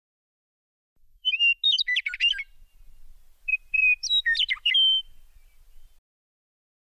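A songbird singing two short phrases of clear whistles and quick trills, about a second apart, over a faint low rumble.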